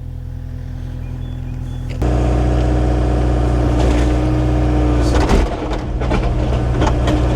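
Engine running steadily; about two seconds in, a louder engine takes over, with a few short clanks a little past the middle.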